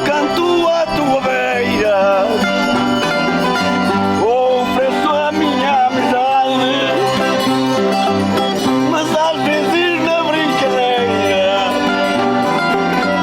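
Folk music played on plucked string instruments and an accordion, with voices singing along.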